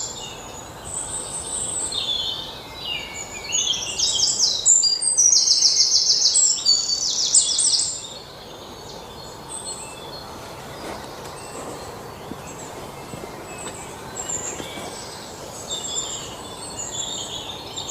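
Small birds chirping in rapid, high trills of quickly repeated notes, in bursts for the first several seconds and again near the end, over a steady background hiss.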